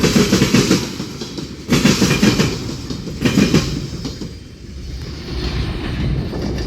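Freight train passing at speed, its railcar wheels clacking over rail joints in loud clusters about every second and a half. About four seconds in, the clacking gives way to a steadier rumble.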